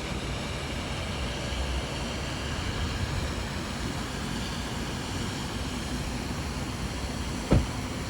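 Steady rumbling background noise of a car wash lot, with one sharp knock about seven and a half seconds in.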